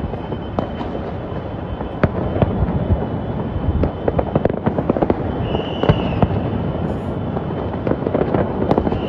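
New Year's fireworks going off across the city: a steady rumble of distant bursts with many sharp cracks and pops, one sharp bang about two seconds in and a dense run of crackling from about four to six seconds in.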